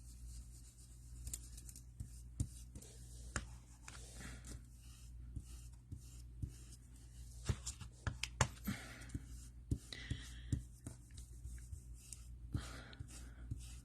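Faint scratchy rubbing of an ink blending brush worked over a paper stencil, with scattered light taps and clicks as the stencil is held down.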